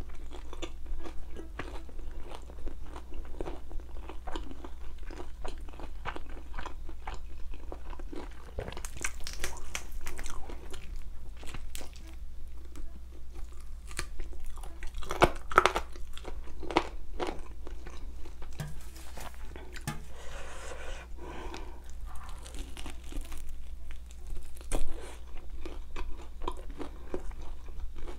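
A person biting into and chewing crispy fried chicken close to the microphone: steady crunching and chewing throughout, with louder bites about halfway through and near the end.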